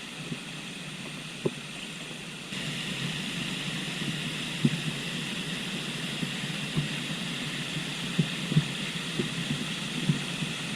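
Steady rushing of a river flowing, with scattered soft low thumps; the sound gets louder about two and a half seconds in.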